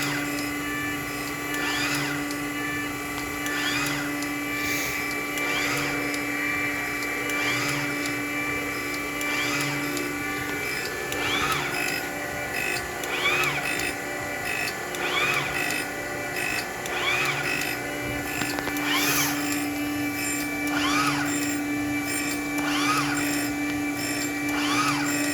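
Surface grinder running on automatic feed: a steady motor hum under a grinding whine that rises and falls about every two seconds as the table travels back and forth under the wheel.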